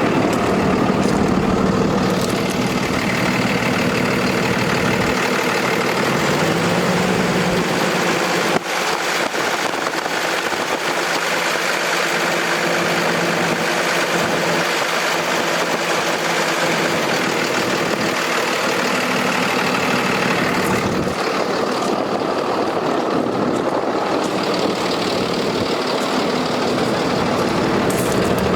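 Diesel engine of a Freightliner M2 dump truck idling steadily, with a single sharp click about a third of the way in.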